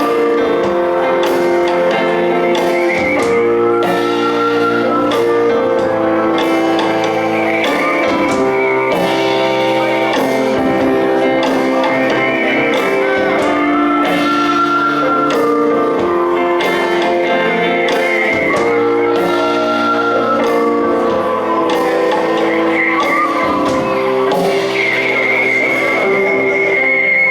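Live band playing an instrumental passage with guitar: sustained chords under a high melodic line that recurs every few seconds, with steady percussive hits.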